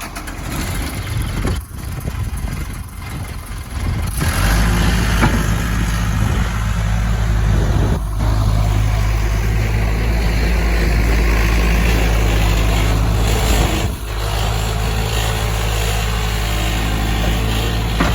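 A farm machine's engine running steadily, stepping up to a louder, even drone about four seconds in.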